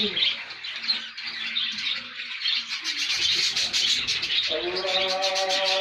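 A flock of budgerigars chattering and squawking continuously. Steady held tones come in about four and a half seconds in.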